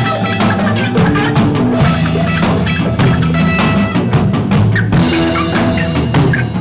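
A band playing live, with a drum kit keeping a steady beat on bass drum and snare under sustained bass notes and guitar.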